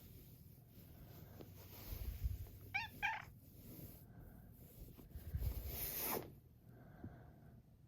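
A cat giving two short, quick meows about three seconds in, amid soft low rumbling and rustling.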